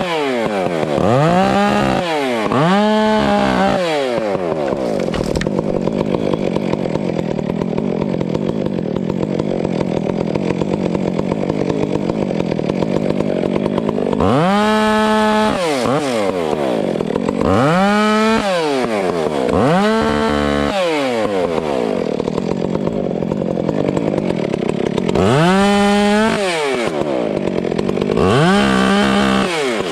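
Chainsaw revving up and dropping back in quick, repeated blips, alternating with longer stretches of steady running under load while cutting through a wind-felled pine.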